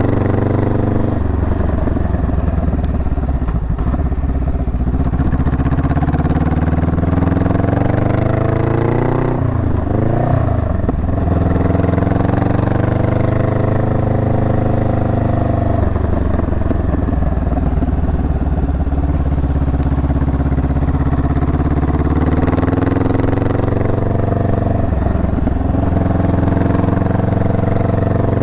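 Honda Rebel 500's parallel-twin engine running under way on the road, its pitch rising and falling with the throttle. It climbs about eight seconds in, breaks up briefly near ten seconds and settles back to a steady note, then shifts again twice later on.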